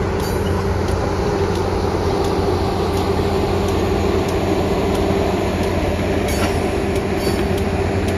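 Passenger train rolling along the track, a steady rumble with a low hum and faint scattered clicks.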